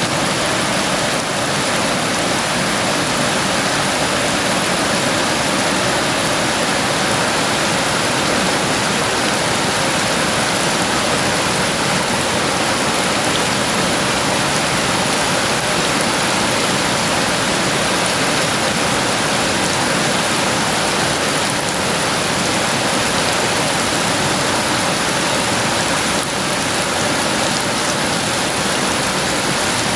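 Steady heavy rain: a dense, even hiss of downpour with no thunder.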